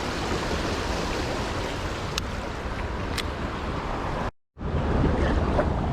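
Steady rush of flowing river water mixed with wind on the microphone, with a few faint ticks. The sound cuts out completely for a moment a little over four seconds in, then returns.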